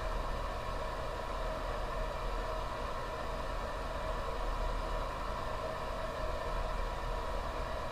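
Steady background hum and hiss with a few faint steady tones, unchanging throughout: room tone.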